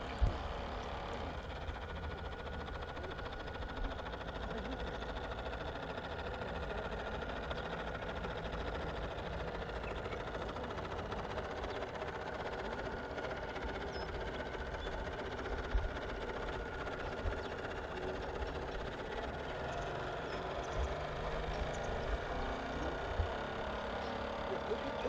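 Small electric motor of a radio-controlled model fire boat running steadily with an even whine, over a low rumble. A few short knocks stand out, near the start and twice later on.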